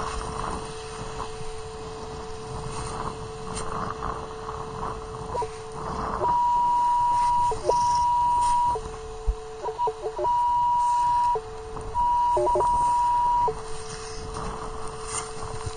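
Metal detector audio: a steady low tone that switches about four times, from about six seconds in, to a louder, higher tone lasting a second or so, with a few short blips between. The higher tones signal a buried metal target. A faint rushing noise runs underneath.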